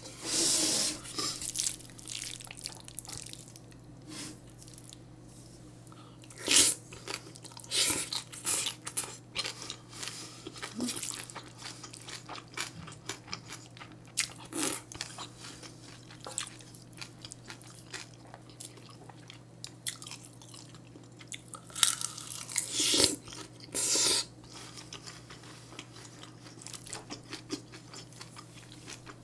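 Close-miked chewing and biting of mouthfuls of bibimbap: short, sharp, wet mouth noises that come in clusters, loudest a little after the middle and again toward the end. A wooden spoon sometimes scoops from a stainless steel bowl. A steady low hum runs underneath.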